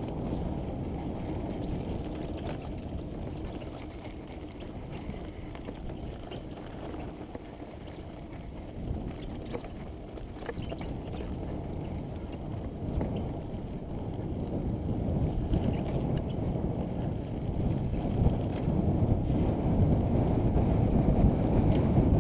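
Riding a mountain bike on a dirt trail: wind rushing over the camera microphone with the rumble of the tyres, and a few short rattling knocks from the bike. The rush grows louder over the last third, as the speed picks up.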